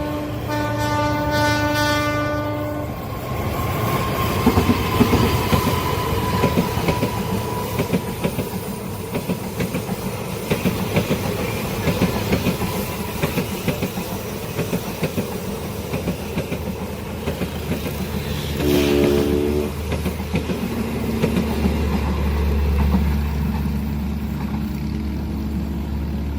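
A train passing with a long horn blast at the start, then its wheels clattering steadily over the rails. A second, shorter horn blast comes about two-thirds of the way through, and a steady low drone runs near the end.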